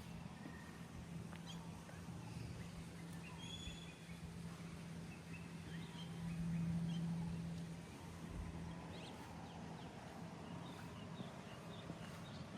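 Scattered short, high bird chirps over a steady low hum that grows louder for a couple of seconds midway, with faint footsteps.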